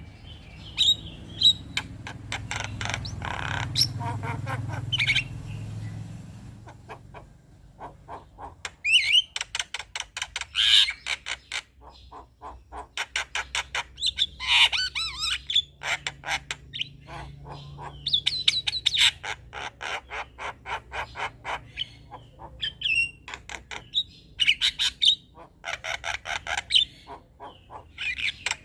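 Male Javan myna (jalak kebo) singing its chattering song: bouts of rapid clicking rattles and harsh squawks, broken by short pauses. A faint low hum runs under the first few seconds.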